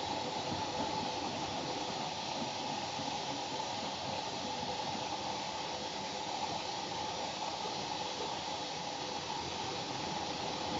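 Washing machine running mid-cycle: a steady, unbroken rushing hiss of water and machine noise.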